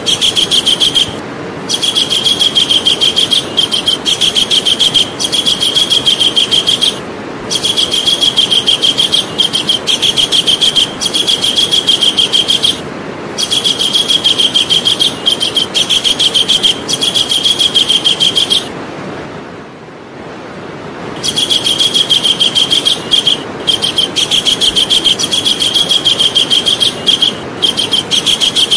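Javan kingfisher calling: loud, high, rapidly repeated notes in long rattling bouts of about five seconds each, broken by short pauses, with one longer pause about two-thirds of the way through. A steady low hiss runs underneath.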